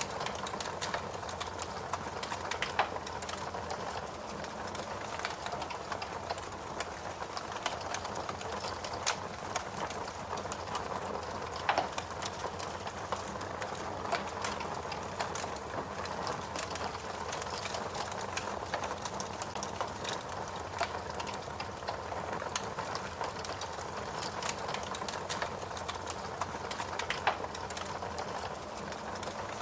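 Wood fire burning steadily, with a constant rushing hiss and frequent sharp crackles and pops, a few louder snaps among them.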